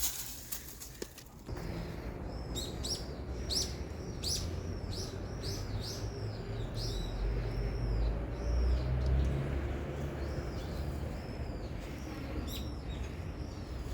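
A bird calling over and over: a string of short chirps, each rising and falling in pitch, beginning about two and a half seconds in, over a steady low rumble.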